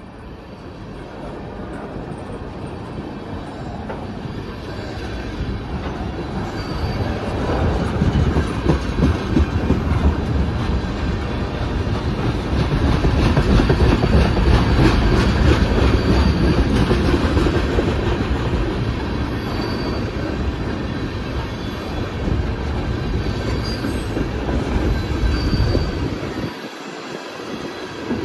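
Freight cars of a CSX mixed freight train rolling past, their steel wheels rumbling on the rails, with brief faint high wheel squeals now and then. The noise builds over the first several seconds, is loudest in the middle, and eases slightly toward the end.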